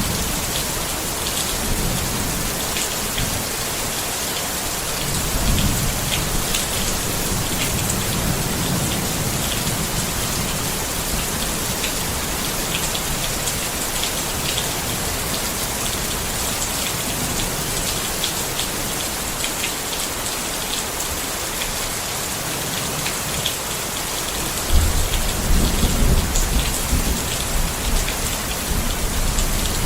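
Steady rain pattering on a tent, with low rolls of thunder; the loudest roll comes near the end.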